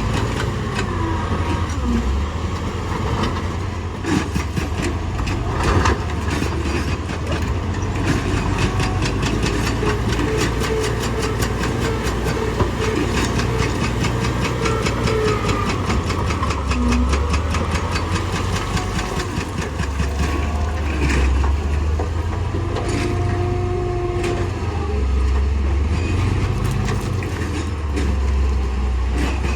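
Heavy earthmoving machinery's engine running steadily with a deep rumble, over a rapid rattling clatter and a few short squeals.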